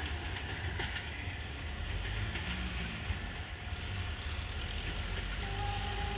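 Diesel-hauled passenger train approaching at a distance: a steady low engine rumble mixed with the noise of the wheels on the rails. A faint held tone comes in about five seconds in.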